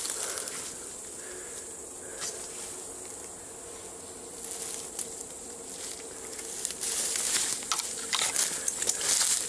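Rustling and crackling of movement through dry leaves and forest undergrowth, quieter in the middle and picking up again about seven seconds in.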